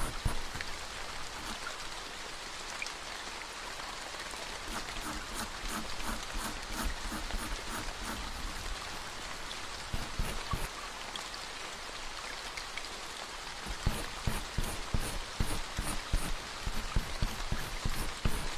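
Steady rain falling, with scattered louder drops and low knocks; the drops come thicker about fourteen seconds in.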